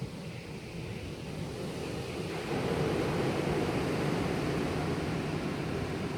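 High wind blowing, a stronger gust building up about two seconds in and holding through most of the rest.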